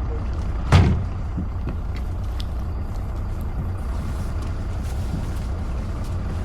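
Tour boat's engine running with a steady low rumble, and a single loud thump about a second in.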